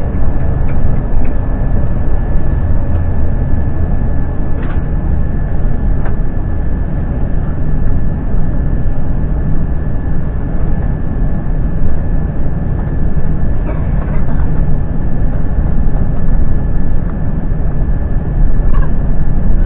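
Steady, loud airliner cabin noise: the Airbus A350's engines and airflow as a deep, even rumble, with a thin steady high whine running through it.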